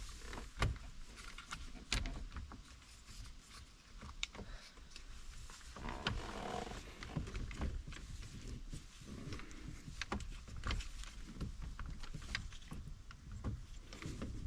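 Scattered clicks, knocks and scrapes of plastic and metal parts as a replacement ignition lock assembly is pushed and worked into place on a 2010 Ford Escape's steering column, not yet seated in the combination switch.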